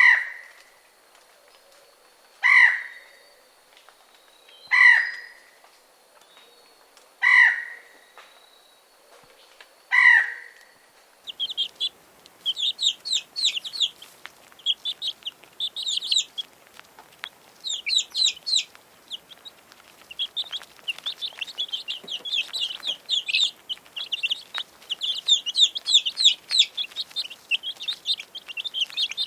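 Chickens calling: five loud separate calls about two and a half seconds apart. After an abrupt change about eleven seconds in, many rapid high peeps and chirps follow one another without a break.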